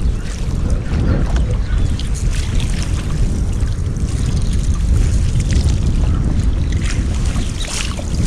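Wind rumbling on the microphone over water sloshing and splashing, with scattered sharper splashes.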